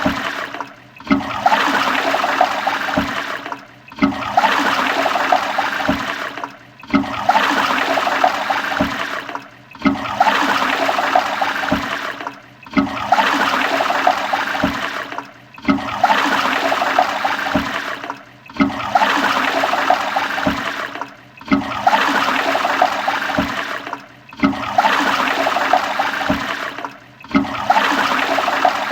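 Toilet flushing: a loud rush of water lasting about three seconds that cuts off abruptly and starts again at once, the same flush repeating about ten times with a brief dip between each.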